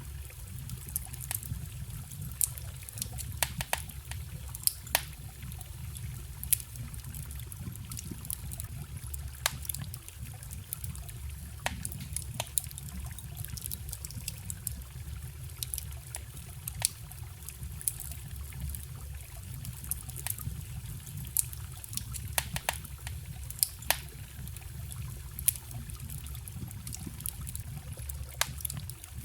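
Wood campfire crackling, with irregular sharp pops every second or so, over the steady low rush of a forest stream.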